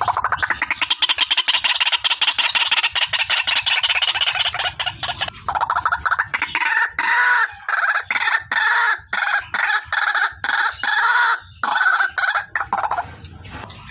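Female white-breasted waterhen (ruak-ruak) calling: a fast, continuous run of rapidly repeated notes for about five seconds. After a brief pause comes a string of separate loud call phrases, roughly two a second, that fade out near the end.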